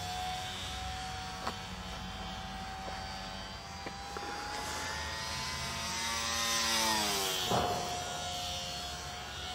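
Extra 330L RC aerobatic airplane's motor and propeller droning in flight, the pitch slowly rising and growing louder, then dropping sharply about seven and a half seconds in before holding steady.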